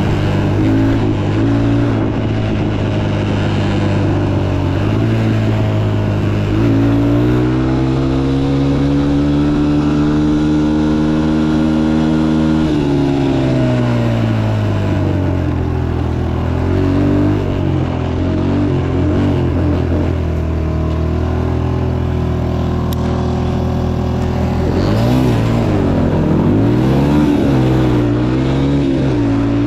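Motocross dirt bike engine running under throttle. Its pitch climbs a few seconds in and holds, drops back about halfway through, then rises and falls quickly several times near the end as the revs change.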